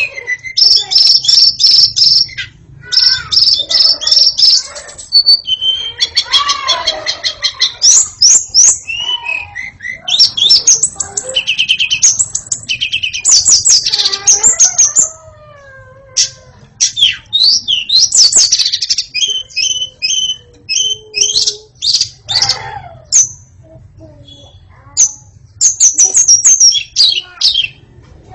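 White-rumped shama (murai batu) singing a long, varied song of rapid trills, chattering notes and gliding whistles, in phrases broken by short pauses.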